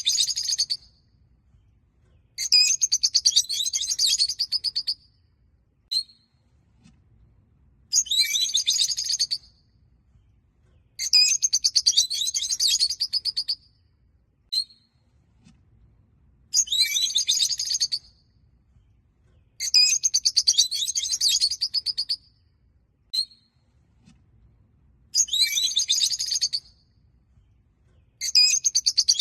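Rosy-faced (peach-faced) lovebirds chattering in shrill bouts of rapid chirps, each a couple of seconds long and coming every few seconds, with single short chirps in between.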